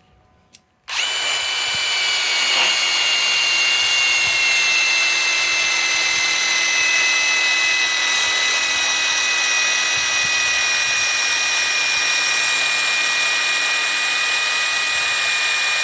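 Ryobi PSBIW25 compact impact wrench starting about a second in and running continuously under load as it drives a lag screw into wood: a steady high motor whine whose pitch sinks slowly as the tool bogs down.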